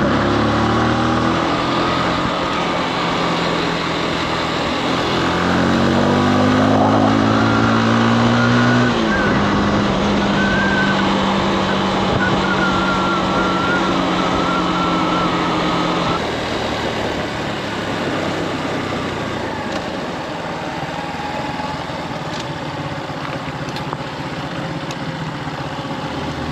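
Motorcycle engine pulling away and accelerating. Its pitch climbs for several seconds, then drops at a gear change about nine seconds in, and it runs on at a steady speed, with wind rushing over the microphone.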